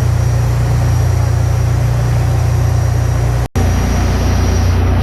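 Loud, steady drone of ship's engine-room machinery, a deep hum with a faint higher whine over it. It cuts out for an instant about three and a half seconds in and carries on.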